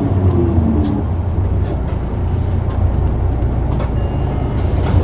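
Isuzu Erga city bus diesel engine heard from inside the cabin, its note falling over about the first second and then settling into a steady low rumble, with a few faint clicks.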